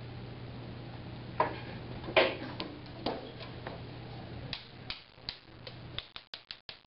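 Scattered light clicks and knocks over a steady low hum, with a quick run of clicks near the end as the hum cuts out.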